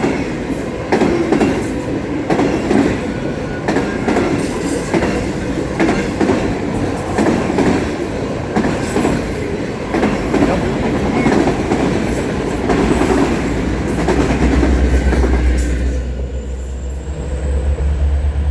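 Freight train cars rolling past, their wheels clattering over the rail joints in a clickety-clack about once a second. Near the end the clatter stops and a steady low hum remains.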